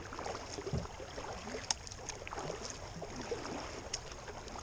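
Water sloshing and small knocks and clicks of handling aboard a kayak, irregular and without any steady rhythm.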